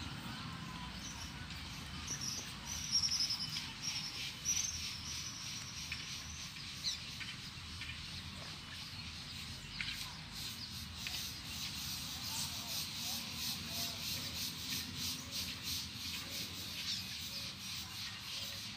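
Small songbirds chirping and calling in the trees, with a fast, high, repeated trill through the second half.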